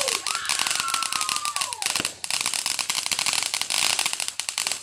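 Fireworks crackling in a dense, rapid run of sharp pops. A high wavering tone rides over the crackle for the first two seconds, then glides down and stops.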